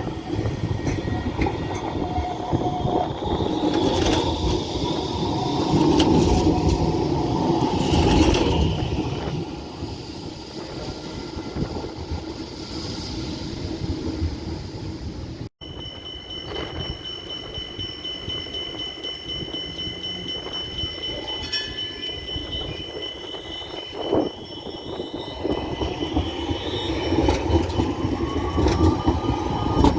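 Trams running on street track: wheel-on-rail rumble with brief high squeals, then after a cut a second tram with a steady high whine and a rising motor whine near the end as it pulls away.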